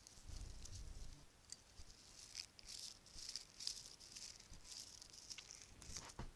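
Bracelets handled close to the microphone, softly jingling and clicking against each other in repeated short shakes, with many small clicks.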